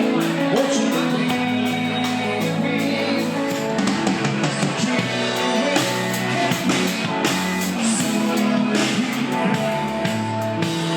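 A soft-rock band playing a song, with guitar and drum kit keeping a steady beat under sustained chords and some singing.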